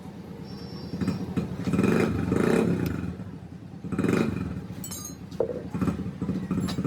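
Royal Enfield motorcycle engine running, with the throttle opened up twice: a longer rise about a second in and a short blip about four seconds in.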